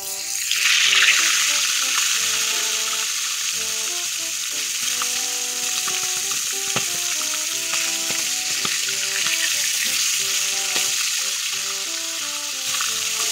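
Marinated chicken leg piece dropped into hot oil in a kadai. The oil flares into loud sizzling just after it goes in, then settles into steady deep-frying.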